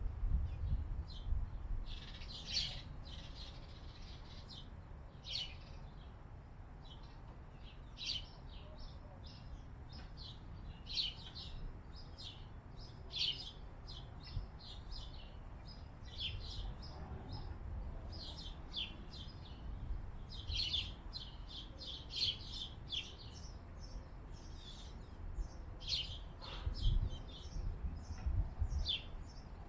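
Wild birds chirping: many short, high calls in quick scattered bursts, with a low rumble underneath that swells near the start and again near the end.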